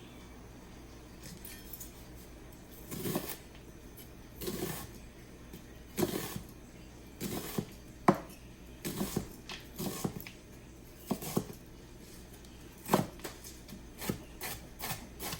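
Knife cutting an onion on a cutting board: a string of uneven knocks and slicing strokes, coming faster in the last few seconds.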